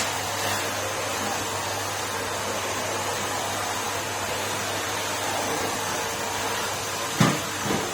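Numatic Henry canister vacuum cleaner running steadily. Near the end, two short thumps, the first louder.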